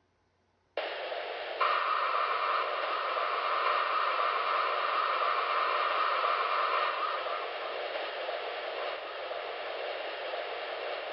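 NASA's space sound clip 'Speeding through Titan's haze': a steady rushing hiss like radio static that starts suddenly about a second in. A brighter, higher band of hiss joins it shortly after and fades out around seven seconds in.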